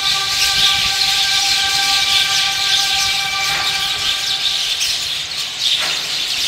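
A large flock of migratory birds chirping together in a dense, continuous chorus. Underneath it is a steady droning tone that fades out about halfway through.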